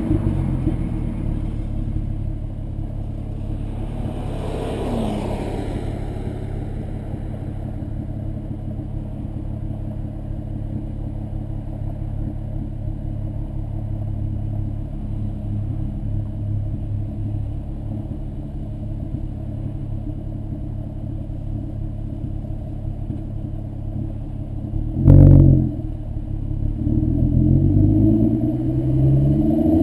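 VW 2.8 VR6 24V engine through a Milltek non-resonated exhaust, running steadily at low revs with a deep drone. About 25 s in there is a short loud burst, and near the end the revs climb as it accelerates.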